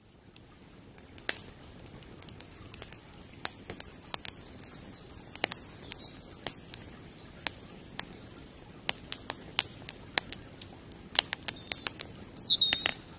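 Small birds chirping in short bursts a few times, over a steady outdoor background with irregular sharp ticks throughout.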